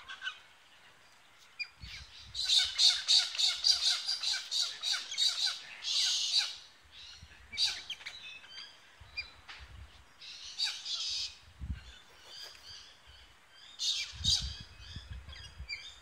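Wild birds calling in the trees, opening with a loud, fast run of squawking notes about two to six seconds in and followed by scattered shorter calls.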